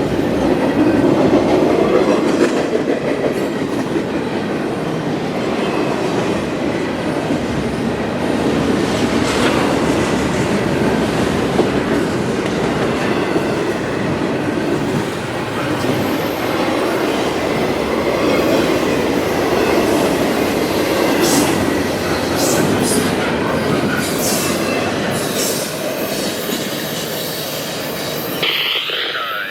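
CSX freight train rolling past: a steady rumble of railcars, with wheels clicking over rail joints and a faint wheel squeal.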